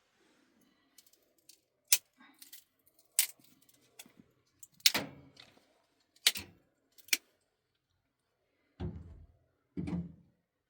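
Hard objects being handled: a series of sharp clinks and knocks, then two duller thuds near the end.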